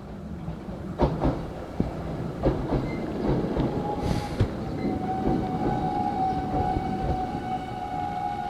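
Nose Electric Railway 3100 series electric train running through the station, its wheels knocking over rail joints in the first few seconds. From about three and a half seconds in, a steady high whine or squeal sets in and holds, with a short hiss of air about four seconds in.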